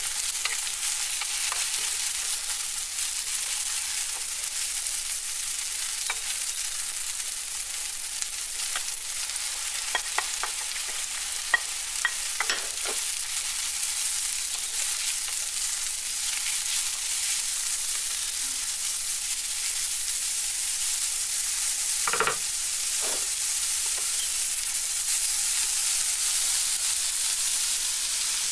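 Chopped onion and shredded carrot sizzling as they fry in a nonstick frying pan, stirred with a wooden spatula. A steady high sizzle, with a cluster of sharp taps a little past a third of the way through and one louder knock about three-quarters of the way through.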